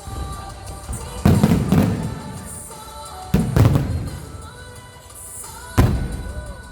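Aerial firework shells bursting overhead: several loud booms, each dying away in a rumbling echo, over music playing throughout.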